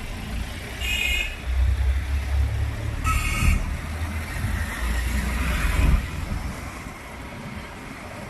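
Busy street traffic heard while riding, a low rumble of engines and road noise that swells and then eases off about six seconds in. Two short vehicle horn honks sound about one second and three seconds in.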